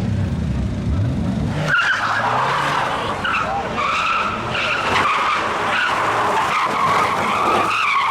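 A car's engine revving, then from under two seconds in its tyres squealing loudly and continuously, wavering in pitch, as it skids round under power.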